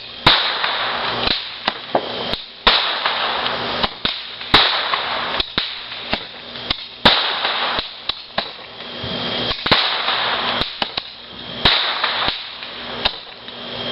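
Consumer fireworks going off: sharp cracks and bangs about every half second to second, with stretches of hissing crackle between them.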